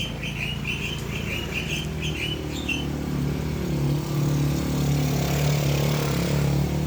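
A small bird chirps rapidly and repeatedly for the first few seconds over the steady low hum of a motor vehicle engine, which grows louder about halfway through.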